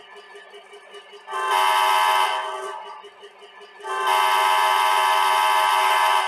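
An O gauge model locomotive's MTH Proto-Sound 3 sound system sounding its horn twice, a short blast followed by a longer one, over its faint running sounds.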